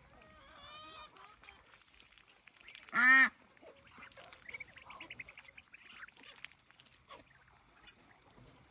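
A Muscovy duckling peeping in a quick run of high calls, then one loud, short honk-like call from a bird about three seconds in. Faint clicks and small calls follow.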